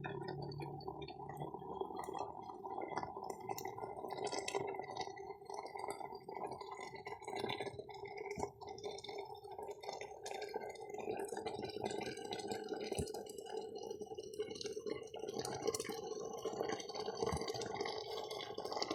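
Water bubbling steadily at a boil over a wood fire, with light crackling and a few sharp pops from the burning firewood.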